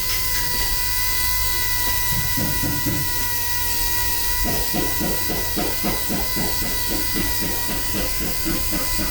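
A small power tool motor running with a steady high whine.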